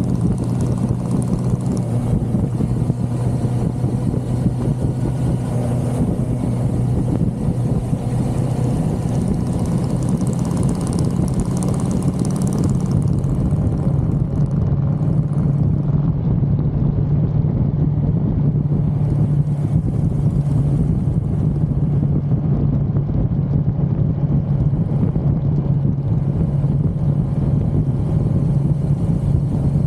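1982 Suzuki GS550L's air-cooled inline-four running steadily at road speed, heard from on the bike with wind rush. The engine note shifts up a little about halfway through.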